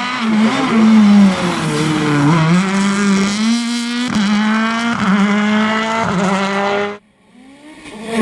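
Rally car engine running hard, its pitch stepping up and dropping back as the gears change, with sharp cracks at the shifts. It cuts off suddenly about seven seconds in, and a second car's engine rises near the end.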